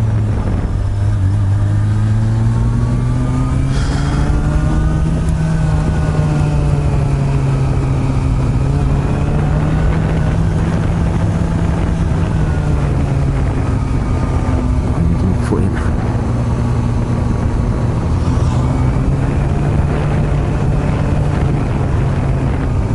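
Honda CB400 Super Bol d'Or NC42 inline-four running through an aftermarket r's gear exhaust while riding, its note rising and falling several times as the throttle and gears change.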